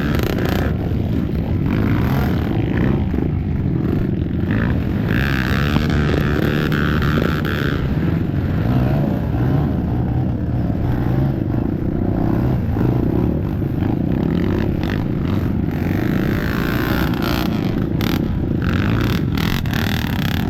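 Off-road motorcycle engine running steadily under way.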